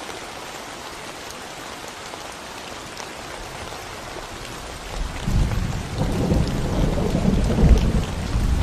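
Steady rain falling on a concrete road, a fine even patter of drops. About five seconds in, a deep rumble of thunder builds and keeps rolling, louder than the rain.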